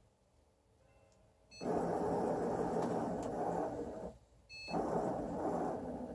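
Excalibur Mirage chess computer's robotic mechanism whirring as its motors drive the electromagnetic head across the board, in two runs about half a second apart. A short beep comes just before each run.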